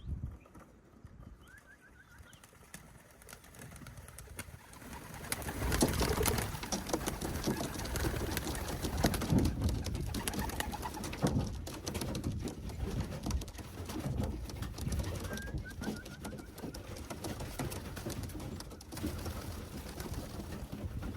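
Young racing pigeons cooing in a loft. From about five seconds in, a louder stretch of fluttering and scuffling sets in as the birds are being caught.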